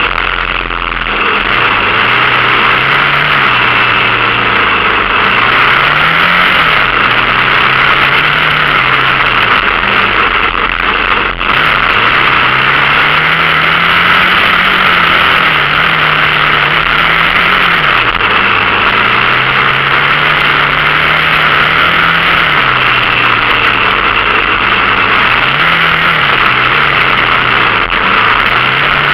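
Dirt bike engine running under way, its pitch rising and falling repeatedly as the throttle is worked, with a sharp drop after each climb, over a steady loud rushing noise.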